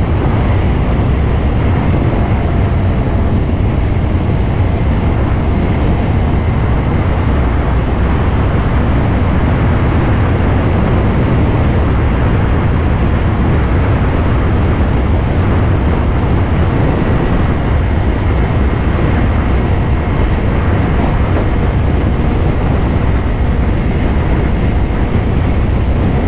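Steady wind rush and buffeting over a helmet microphone while riding a 2024 Kawasaki Ninja 500 at speed in strong wind, with the motorcycle's parallel-twin engine running evenly underneath.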